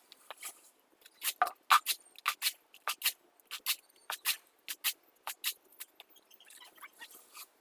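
Hand tools working wet concrete: an irregular series of short, sharp scraping clicks, about two a second, thinning out near the end.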